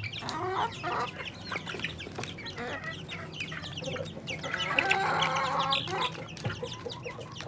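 Chickens clucking, over a constant chorus of short, high, falling chirps, with one louder, longer call about five seconds in.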